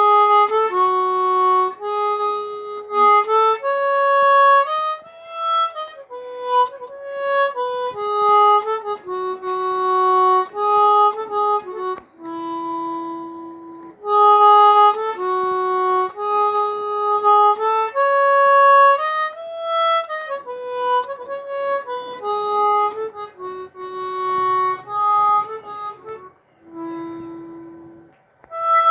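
Hohner CX 12 chromatic harmonica in E flat playing a slow Bengali folk melody as single held notes, with a couple of brief pauses for breath.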